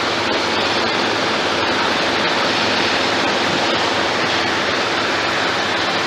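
Robinson R22 helicopter in flight, heard from inside the cabin: a loud, steady wash of engine, rotor and airflow noise that does not change.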